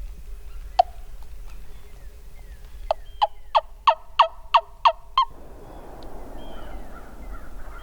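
A series of about eight loud turkey yelps, each a quick falling note, about three a second, preceded about a second in by a single sharp crack. Faint songbirds call in the background.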